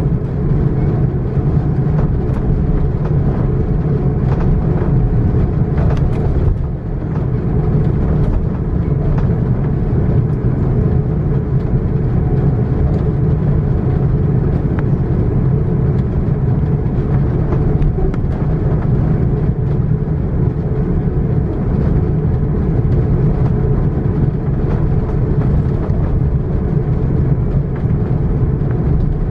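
Steady cabin rumble inside an Airbus A330-900 airliner while it taxis, its Rolls-Royce Trent 7000 engines at low thrust, with a few faint knocks from the airframe and a short dip about seven seconds in.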